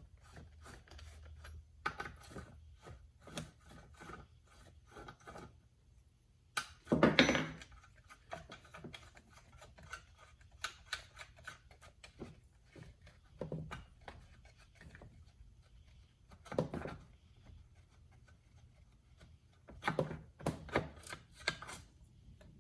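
Hands working on a chainsaw: scattered light clicks and scrapes of its parts being handled, with a louder clunk about seven seconds in and a few more knocks near the end.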